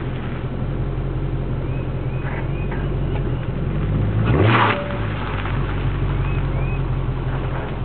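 2007 Dodge Charger SRT8's 6.1-litre Hemi V8 idling through a 3-inch Mopar exhaust with aftermarket mufflers, with one quick blip of the throttle about four seconds in.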